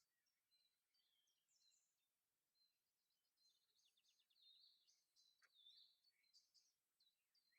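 Faint morning birdsong from several songbirds: scattered short chirps and whistles, with a rapid trill about four seconds in.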